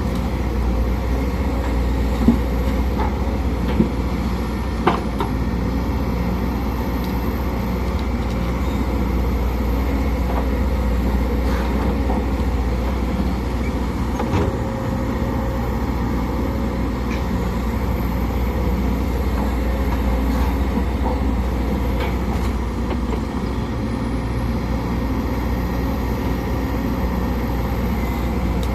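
Sumitomo SH210 hydraulic excavator's diesel engine running steadily under working load, with a faint high whine that slowly rises and falls. A few sharp knocks come in the first five seconds.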